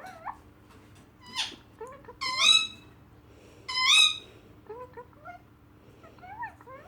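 Parrot calls: a quick rising call, then two loud drawn-out squawks about two and four seconds in, followed by a run of short, soft whistled chirps that rise and fall in pitch.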